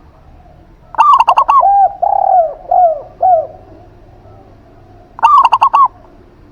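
A zebra dove and a spotted dove cooing in turn. About a second in and again near the end come quick runs of short, clipped high coos, and between them a few lower, longer coos.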